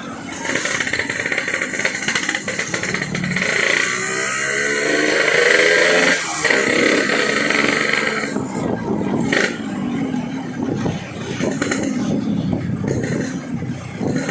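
Yamaha RX-King two-stroke single with a gutted (bobokan) exhaust, ridden and revving up, the pitch climbing and then dropping briefly about six seconds in as it shifts gear.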